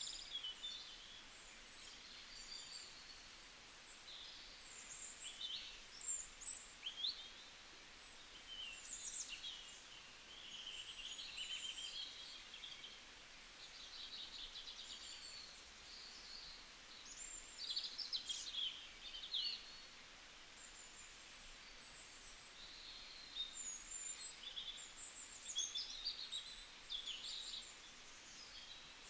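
Several small songbirds chirping and trilling in bursts, high-pitched calls coming and going over faint, steady background hiss.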